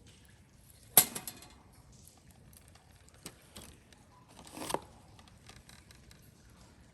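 Camp gear being handled: a sharp knock about a second in, a couple of light clicks, then a short clatter ending in a hit a little past halfway.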